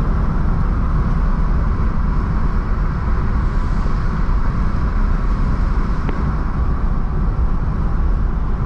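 Steady low rumbling noise with no running engine in it, with one short click about six seconds in.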